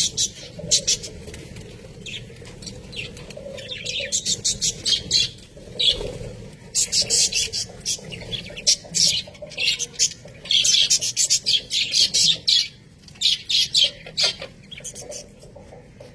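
Budgerigars chattering: fast runs of short, high chirps and clicks that come in bursts of a second or two, with brief pauses between.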